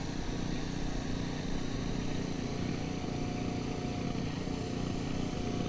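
Electric motor and propeller of a radio-controlled FPV model aircraft droning steadily in flight.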